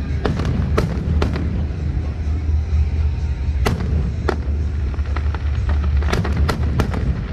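Fireworks going off: a run of sharp bangs and cracks at uneven spacing, a few in the first second and a half, two more near the middle, and a quick cluster of cracks near the end, over a steady low rumble.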